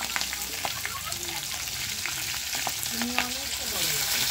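Capsicum frying in hot oil in a kadai: a steady sizzle with many small crackling pops.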